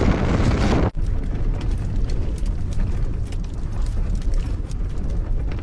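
Gale-force wind buffeting the microphone, a steady low rumble with a hiss over it; it drops out for an instant about a second in and resumes.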